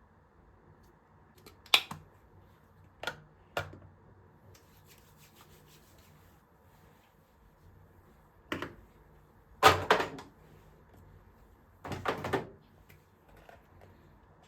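A series of sharp knocks and clatters, about six in all. The two loudest, about ten and twelve seconds in, rattle on for around half a second each.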